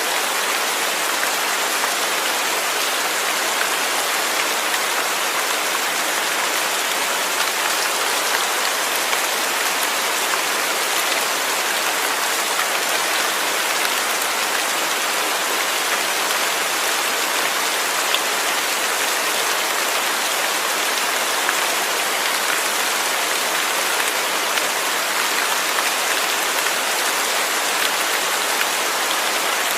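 Steady rain falling, an even hiss of many drops with scattered faint individual drop ticks.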